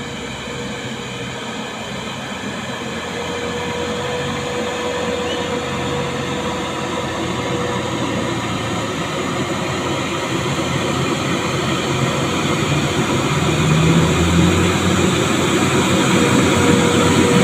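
Heavy truck's diesel engine running steadily under load, growing gradually louder and louder still near the end.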